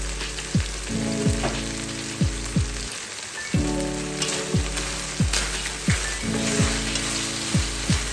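Beef and minced garlic sizzling steadily in a stainless steel skillet, with background music that has a regular bass beat.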